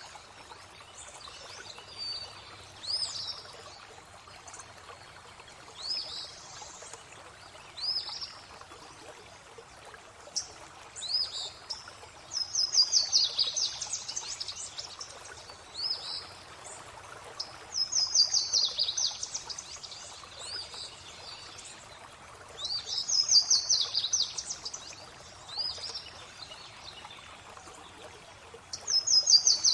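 Songbirds singing over a steady running-water ambience. Short rising chirps come about every two seconds, and every five or six seconds there is a louder rapid trill of fast repeated notes lasting a second or two.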